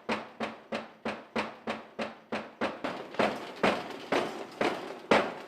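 A series of sharp knocks or strikes, about three a second at first, then slowing to about two a second and growing louder, each with a short ringing tail.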